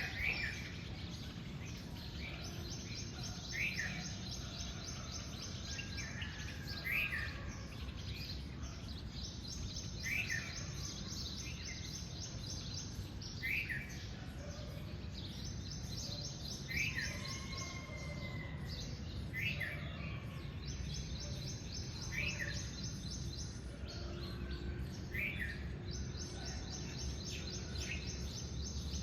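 Birds calling: a short chirp repeated every two to three seconds, alternating with a high, rapid trill of a few seconds, over a steady low rumble.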